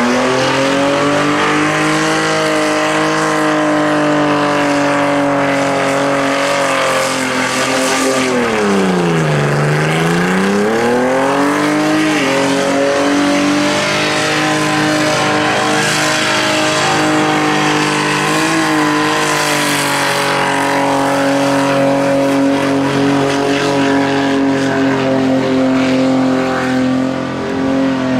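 The Ford Barra inline-six in a VK Commodore is held at high revs during a burnout, with the rear tyres spinning on the pad. The engine note stays steady. About a third of the way through, the revs drop sharply and climb back, and there are a couple of brief smaller dips later on.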